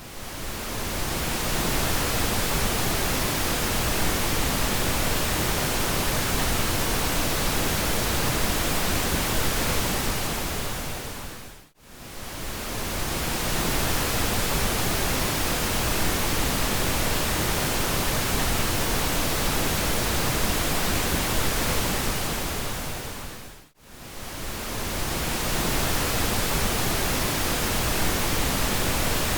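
Synthetic pink noise: a steady, even hiss. It dips to silence and fades back in over a second or two, twice, about twelve seconds apart, as the audio loop restarts.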